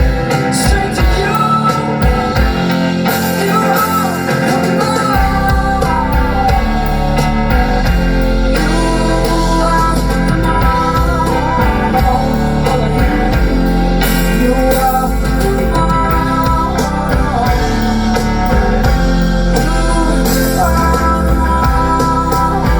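Live rock band playing a song, with a woman singing over guitar and bass. A deep bass low end comes in about five seconds in.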